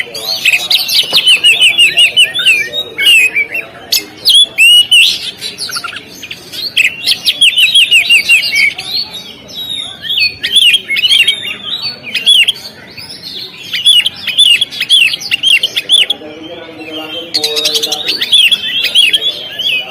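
Oriental magpie-robin singing: a fast, varied run of chirps, whistles and trills in phrases with brief pauses between them.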